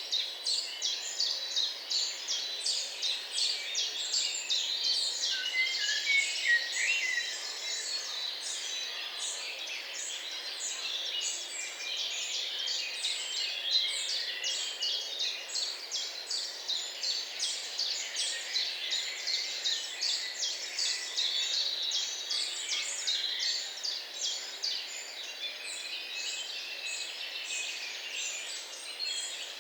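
Many small songbirds singing at once: a dense, continuous chorus of quick, high chirps and trills.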